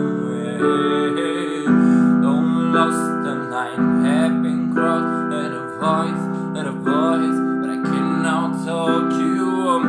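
Piano playing sustained chords in a slow pop accompaniment, moving to a new chord about every one to one and a half seconds.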